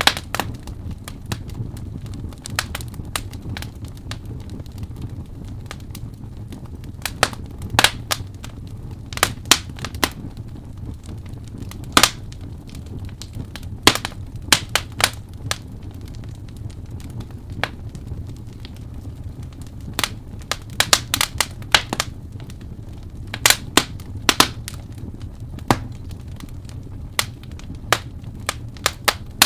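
Wood fire in a fireplace crackling, with irregular sharp pops and snaps, some in quick clusters, over a steady low rumble of the burning fire.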